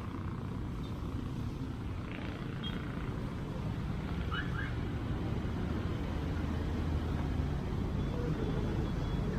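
Steady rumble of road traffic, cars and trucks running on a busy street.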